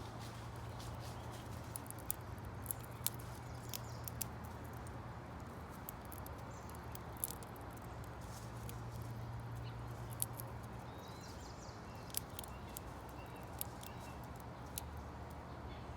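Birds at a seed feeder pecking and handling seed, making a scatter of sharp, irregular clicks and taps, with a steady low hum underneath.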